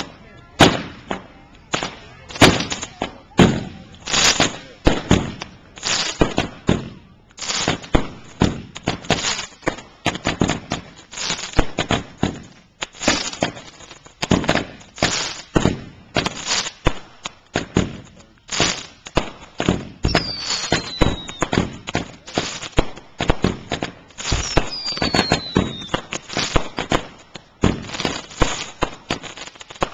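Consumer fireworks going off in rapid succession: a continuous barrage of sharp bangs and pops, several a second. Two short falling whistles come a little past the middle.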